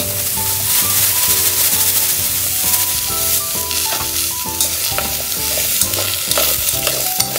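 Sliced vegetables sizzling as they fry in hot oil in an aluminium pot, turned over with tongs, a steady hiss throughout. Background music with held notes plays underneath.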